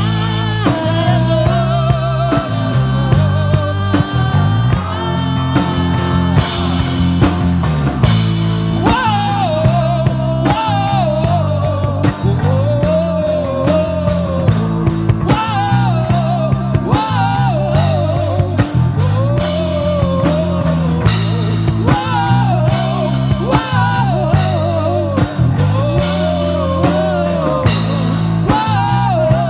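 Live rock band playing the instrumental stretch of a song: a drum kit keeps a steady beat under bass and guitar, and from about a third of the way in a lead melody bends and wavers above them.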